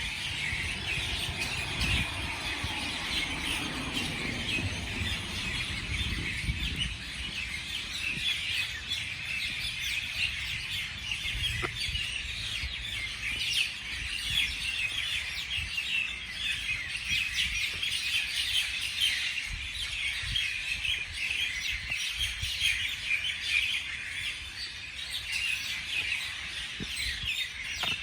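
Many small birds chirping together in a dense, unbroken chorus. For the first several seconds a low rumble with a slowly falling pitch runs underneath.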